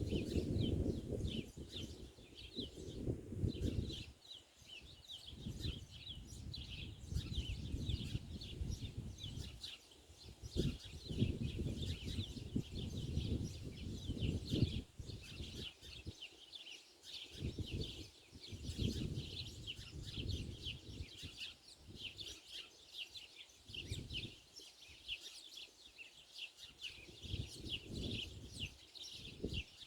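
Small birds chirping rapidly and without pause, many short calls a second, over gusts of wind rumbling on the microphone.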